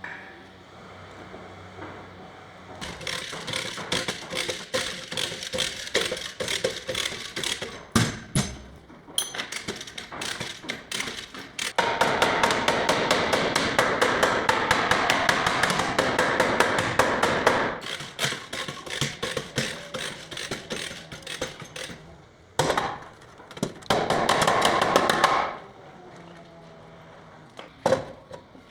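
Hammer blows on car body sheet metal, many sharp strikes in quick runs, densest and loudest through the middle, typical of panel beating to reshape collision damage.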